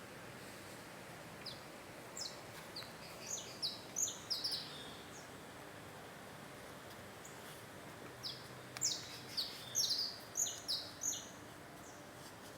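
A bird singing in two bouts of quick, short high chirps, each bout lasting a few seconds, over a faint steady background hiss.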